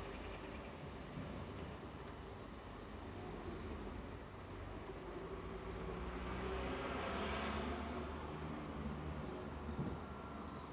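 Outdoor evening ambience: a steady run of short, high chirps, two or three a second, over a low rumble, with a broad swell of noise in the middle that fades again.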